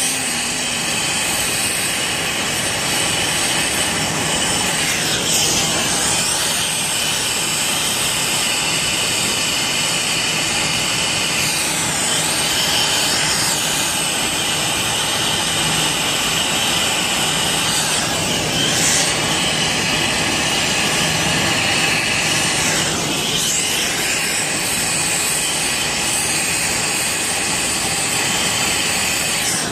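Brazing torch burning with a steady loud hiss while heating a copper refrigerant line joint for repair.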